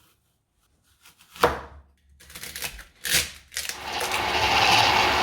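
Kitchen handling noises: two sharp knocks with lighter clatter between them, then a steady hiss that starts about three and a half seconds in.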